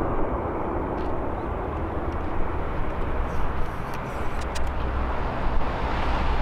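Jet airliner's engines at takeoff thrust as it departs: a steady, loud rush of noise with a deep rumble underneath.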